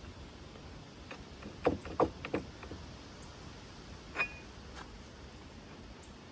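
A few sharp metal clinks and knocks as metal parts or tools are handled: three close together about a second and a half in, then one more a couple of seconds later that rings briefly.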